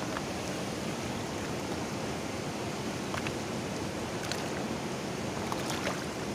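Kali Gandaki river water rushing steadily, with a few faint clicks scattered through it.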